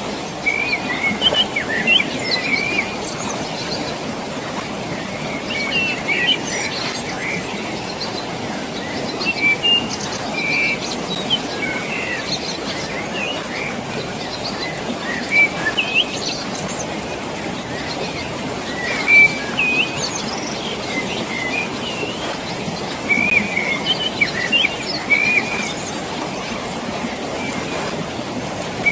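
Many birds chirping and trilling in short, scattered phrases over a steady rush of flowing water.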